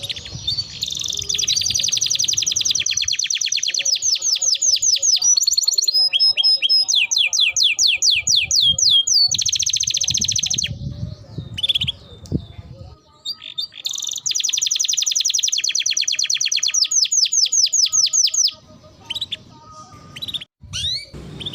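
Domestic canary singing long, rapid rolls of repeated chirps and sweeping trill notes, several long trills broken by short pauses.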